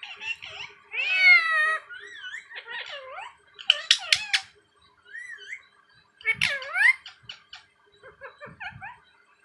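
Pet parrot vocalising in a string of short, pitched calls with sliding pitch, loudest about a second in, around four seconds and around six and a half seconds.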